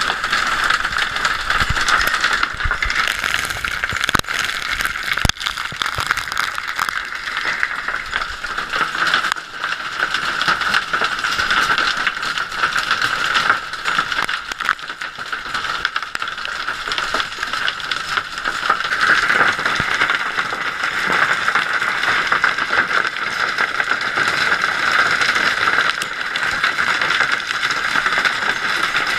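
Hailstones pelting hard surfaces in a dense, continuous clatter of countless small impacts during a heavy hailstorm.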